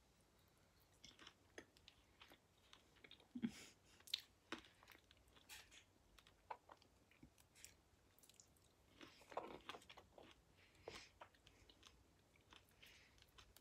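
Faint chewing and biting of small yellow guavas: scattered soft crunches and little clicks, with a few louder bites about three to four and a half seconds in and again around nine to ten seconds.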